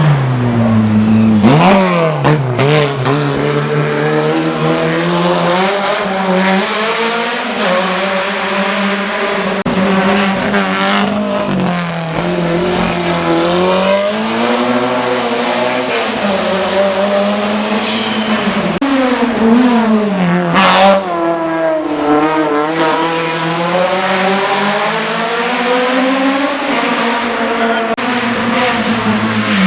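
Hill-climb race car's engine running hard at high revs, its pitch climbing and then dropping again and again through gear changes.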